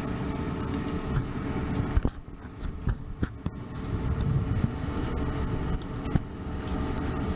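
Electric suburban train running, heard from inside the carriage: a steady low rumble, with a few sharp clacks from the wheels crossing track joints about two to three and a half seconds in and again near six seconds.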